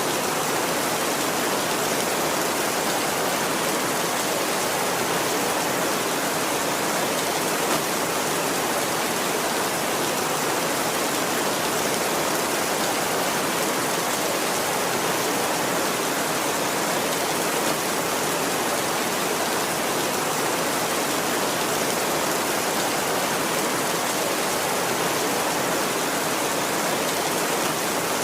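Steady heavy rain, an even hiss with no breaks or thunder.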